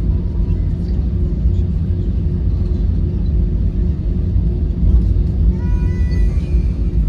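Airbus A321 airliner with its engines running: a steady low rumble. A brief higher tone comes about six seconds in.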